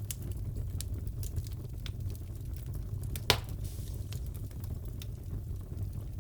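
Wood fire crackling in a fireplace: a steady low rumble of burning with scattered sharp crackles, and one louder pop a little past halfway.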